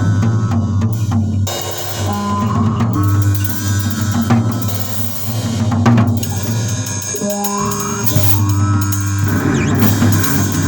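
Bass and drum kit playing together: sustained low bass notes that change every second or two, under drums and cymbals.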